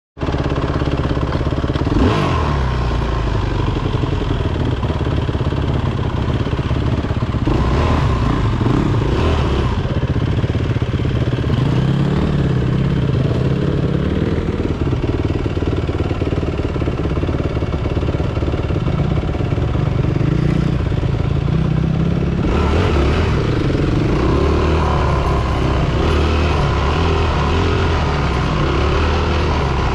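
Four-stroke single-cylinder dirt bike engine running under way, its note rising and falling with the throttle, with sharper revving around 2 s, 8 s and 22 s in.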